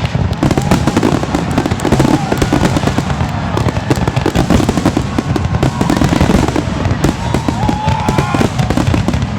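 Fireworks display going off loudly in rapid, continuous bangs and crackling, with a few brief gliding whistle-like tones.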